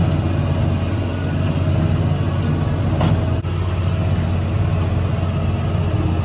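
Tractor engine running steadily, pulling a loaded manure spreader across the field.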